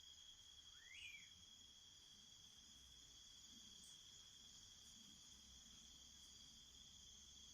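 Faint night-time chorus of crickets, a steady high trill, with one short rising call about a second in.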